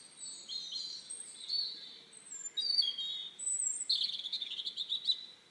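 Small birds chirping and twittering in short high calls, with a rapid trill about four seconds in.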